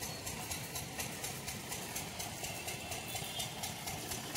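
Passenger train rolling slowly along the track: a steady rumble of wheels on rail with a light, regular clatter, heard from an open coach door.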